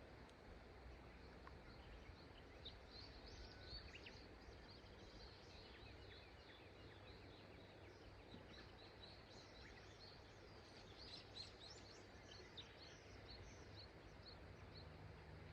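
Faint, steady rush of a flowing river, with small birds chirping in quick high notes over it, busiest about three seconds in and again from about ten to thirteen seconds.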